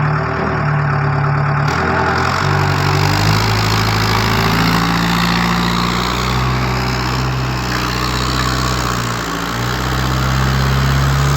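Vehicle engine running, its pitch stepping up and down several times, with a brief dip about nine seconds in.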